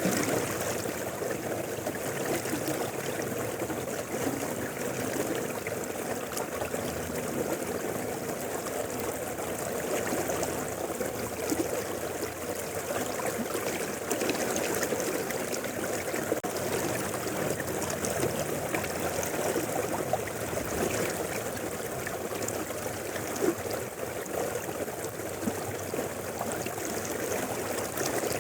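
Mountain river flowing steadily: a continuous rush of water with small gurgles and splashes.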